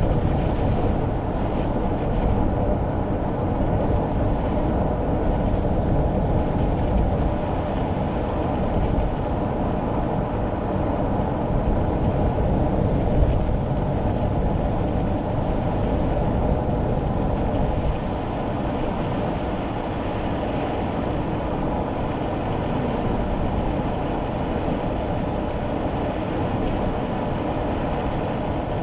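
Steady road and engine noise heard inside a kei car's cabin while driving on rain-wet roads, a dense low rumble that eases slightly about two-thirds of the way through.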